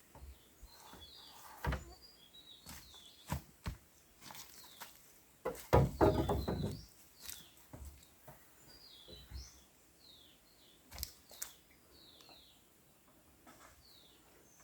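Small birds chirping repeatedly in short downward-sliding notes, over scattered sharp knocks and a louder scraping sound lasting about a second, about six seconds in.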